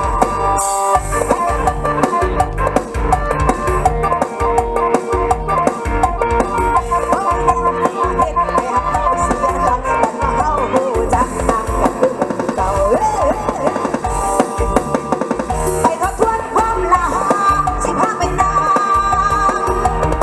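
Mor lam sing band music played through a large outdoor sound system. A drum kit keeps a steady beat under a bending, ornamented melody line.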